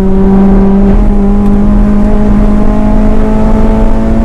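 Tuned four-cylinder engine of a stage 4 Honda Civic Si pulling hard under acceleration, its high note climbing slowly and steadily in pitch, heard from inside the cabin.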